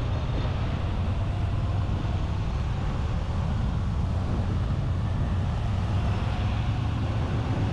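Moto Guzzi motorcycle's transverse V-twin engine running steadily at low riding speed, heard from a camera mounted on the bike, with wind and road noise.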